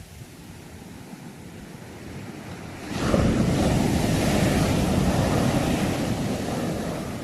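Sea waves on the shore: a low hiss of surf, then about three seconds in a wave breaks suddenly and washes in loudly, slowly fading away toward the end.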